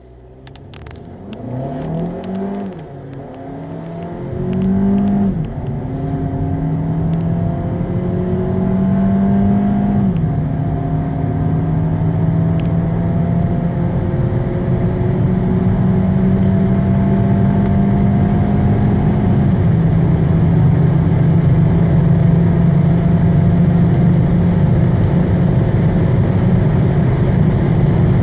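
Hyundai i30 Fastback's 1.4 T-GDI turbocharged four-cylinder accelerating hard from a standstill, its note rising through each gear and dropping at each upshift of the seven-speed dual-clutch gearbox. There are four upshifts, about two, five, ten and twenty seconds in, each gear lasting longer than the last. Wind and road noise build as the speed climbs.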